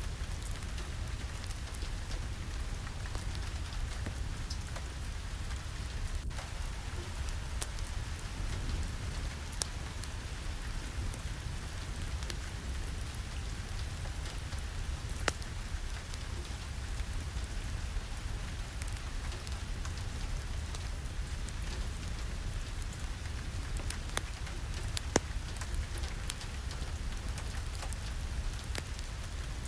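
Steady rainfall with a deep, constant rumble underneath and scattered sharp ticks, two of them louder about halfway through and near the end.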